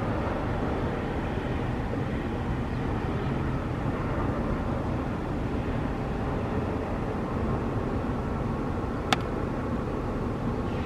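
Steady hum of outdoor city traffic, with one sharp tick about nine seconds in: a drop of condensate from an upstairs window air conditioner landing on the windowsill.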